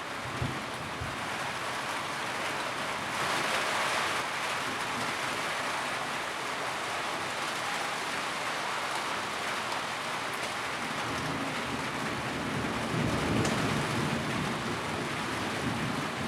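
Steady rain falling on a tin roof, heavier for a moment about three seconds in, with a low rumble swelling about twelve seconds in.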